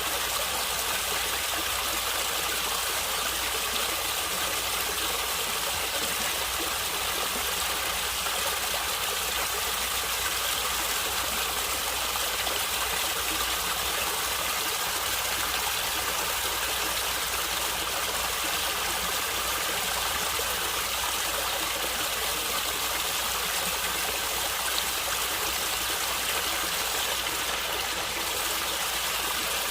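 Running water in a stream, a steady rushing and gurgling flow.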